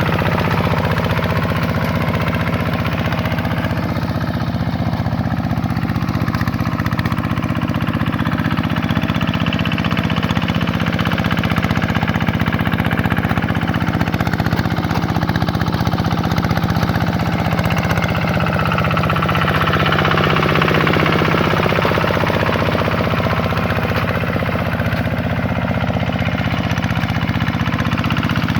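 Single-cylinder diesel engine of a Vikyno RV125-2 two-wheel hand tractor running steadily while ploughing paddy.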